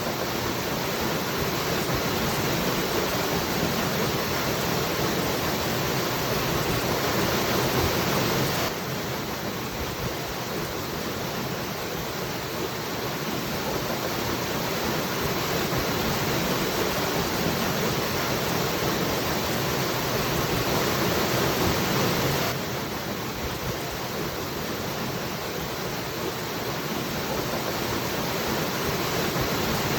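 Waterfall rushing in a steady, even roar of water noise. The level drops suddenly by a few decibels about nine seconds in and again about 22 seconds in, then builds back up slowly each time.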